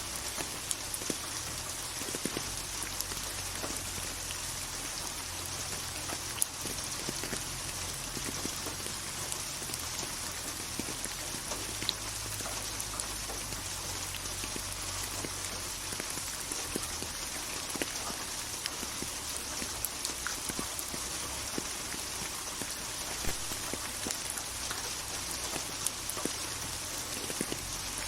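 Steady rain falling on a hard surface, an even hiss with scattered single drops ticking through it.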